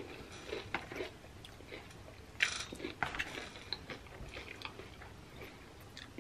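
A person chewing a mouthful of nachos (tortilla chips with cheese), with small wet mouth sounds and crunches scattered through and one louder crunch about two and a half seconds in.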